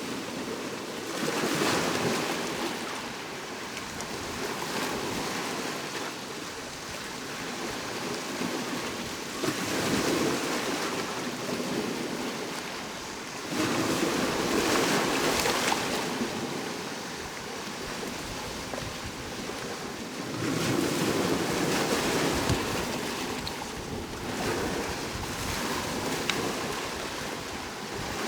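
Sea waves breaking and washing up on the shore, with about five surges that each swell and fade over a couple of seconds, under a steady wash of surf.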